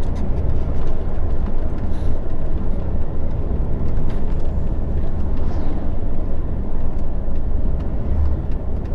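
Steady engine and road rumble heard inside a moving lorry's cab.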